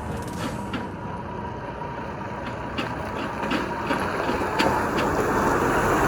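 A truck approaching on the road, its engine and tyre noise steadily growing louder.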